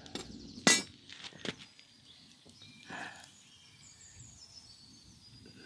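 A few sharp knocks or clinks, the loudest just under a second in and another about half a second later, then a softer knock. After that, only low outdoor background with faint high chirps.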